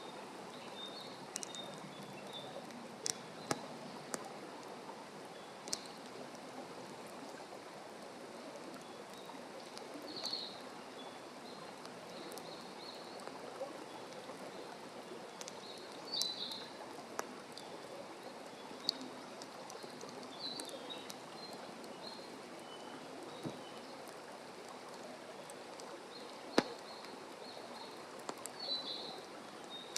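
Wood campfire burning, with a steady soft rush and scattered sharp crackles and pops; one loud pop comes near the end.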